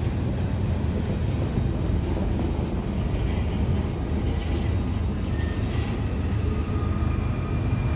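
Freight train rolling past: a steady, loud rumble of cars on the rails.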